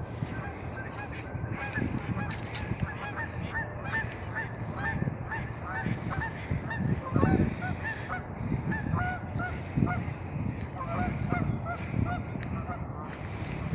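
A flock of geese honking, many short calls overlapping continuously, with scattered low thumps underneath.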